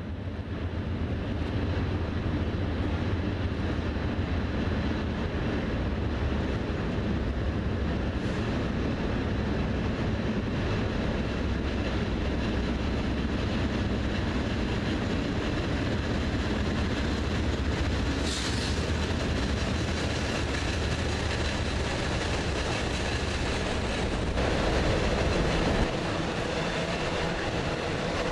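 Norfolk Southern diesel-hauled double-stack freight train rolling across a steel truss bridge: steady low locomotive engine rumble over the clatter of wheels on the rails. The engine rumble falls away near the end as the locomotive passes, leaving the rolling stack cars.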